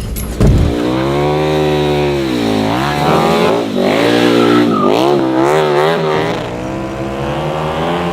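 KTM 1290 Super Duke R V-twin motorcycle engine revving hard, its pitch dropping and climbing again several times, with a sharp bang about half a second in.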